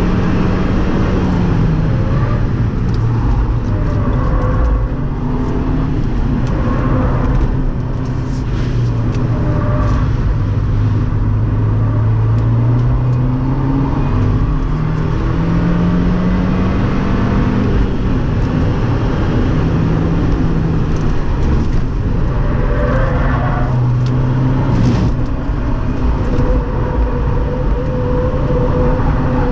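2017 Fiat 124 Spider Abarth's turbocharged 1.4-litre four-cylinder engine driven hard through a fast lap, its pitch climbing slowly and dropping several times at shifts and braking, over steady road and wind noise.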